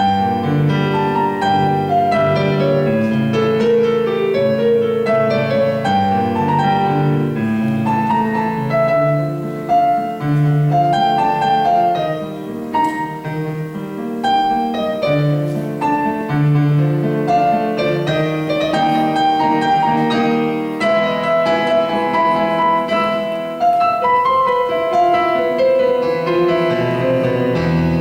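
Piano playing an instrumental passage: a flowing melody over sustained chords.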